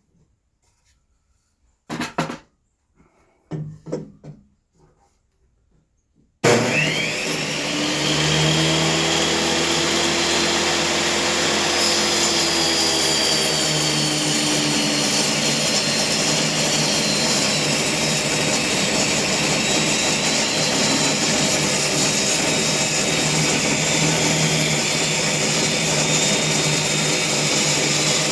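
A few light knocks, then about six seconds in a table saw switches on, its motor whining up to speed, and runs steadily for the rest of the time while boards are ripped down to width.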